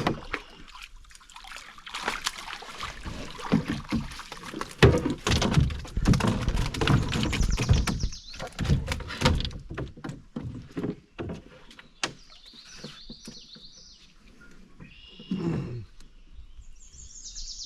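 Knocks, thumps and clatter in a canoe as a channel catfish is pulled off a bank-pole line and brought aboard, the loudest knock about five seconds in. Birds chirp in the last few seconds.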